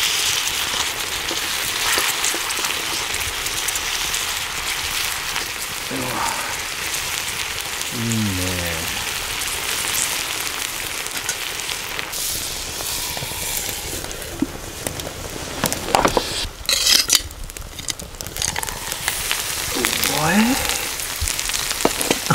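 Tandoori chicken sizzling steadily in a skillet, with sharper crackling and popping in the second half.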